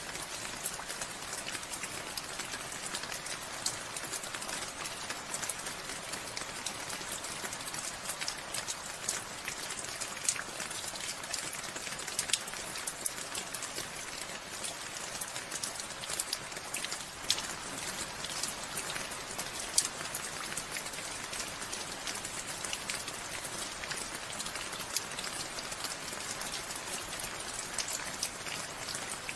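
Steady rain falling, a constant hiss with many distinct drops ticking and pattering on surfaces.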